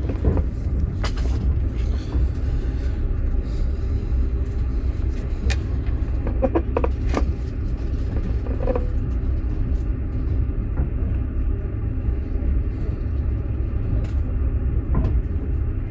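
Steady low rumble of a moving passenger train heard from inside a platzkart sleeper carriage, with scattered clicks and knocks.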